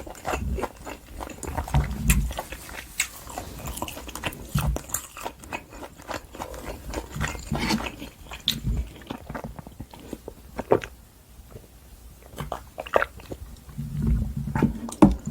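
Close-miked chewing of wagyu steak: wet mouth smacks and clicks at an irregular pace, with soft low thumps now and then.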